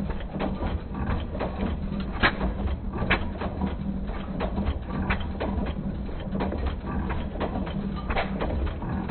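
Lister L stationary engine running: a dense mechanical clatter of irregular clicks over a steady low hum.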